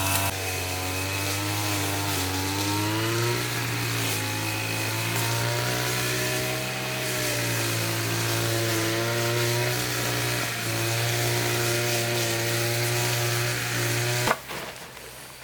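A small engine running steadily with its pitch wavering slightly as the load changes, then cutting off suddenly near the end.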